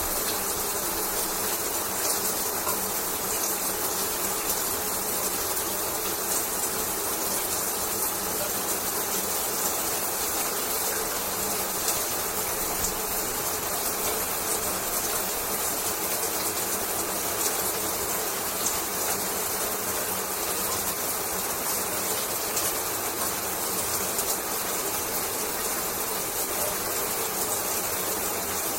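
Shower water running steadily, the spray making a constant even hiss that does not change.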